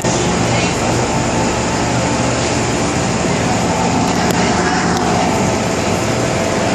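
Steady running noise of an MTR metro train heard on board, with a short falling whine about four and a half seconds in.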